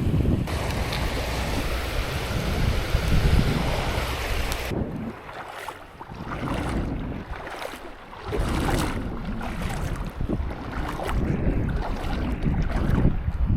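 Waves breaking and washing on a sandy beach, with wind rumbling on the microphone. About five seconds in, the hiss thins and the surf comes and goes in slower swells.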